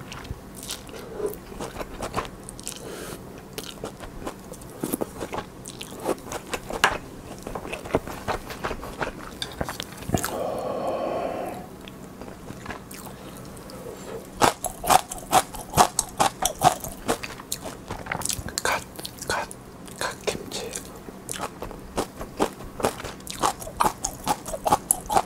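Close-miked mukbang chewing: wet smacking and crunching as a mouthful of rice and soup is eaten, in quick irregular clicks. One longer, louder sound of over a second comes about ten seconds in, and the chewing grows busier a few seconds later.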